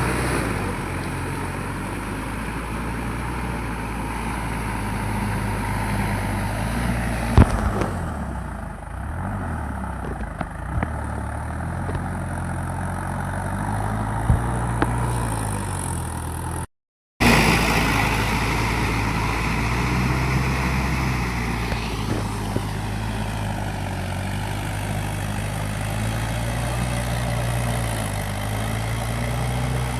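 Mahindra 585 tractor's diesel engine running steadily, its pitch rising and falling a little with load, with a couple of sharp knocks. The sound drops out completely for about half a second a little past halfway.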